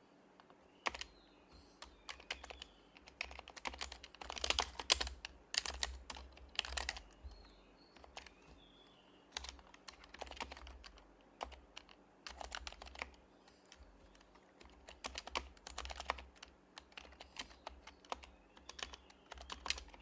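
Typing on an HHKB Professional Hybrid Type-S keyboard with Topre switches: keystrokes come in short runs with pauses of a second or so between them.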